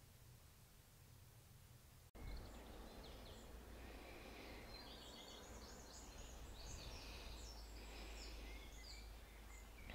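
Birds chirping and singing faintly over outdoor background noise with a low steady rumble. The birdsong starts after a sudden cut about two seconds in, following a stretch of faint hum.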